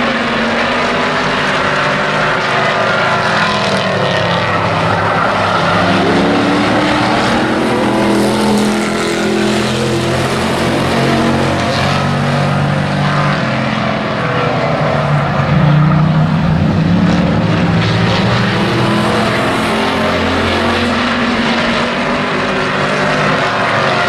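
Several hobby-class race trucks racing in a pack, their engines overlapping and rising and falling in pitch as they accelerate, lift off and pass.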